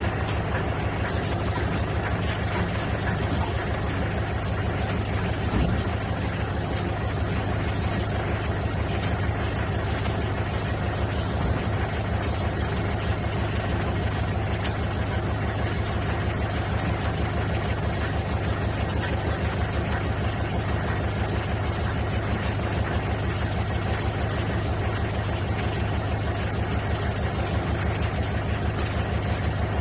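Lister SR3 three-cylinder air-cooled diesel engine running steadily at idle, with rapid even firing pulses. A single louder knock comes about five and a half seconds in.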